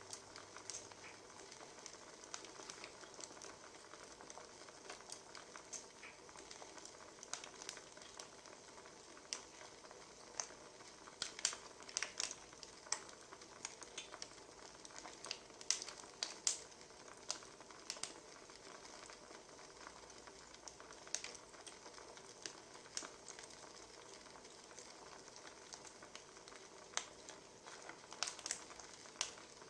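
Wood fire crackling: a steady soft hiss with irregular sharp pops and snaps, which bunch together around the middle and again near the end.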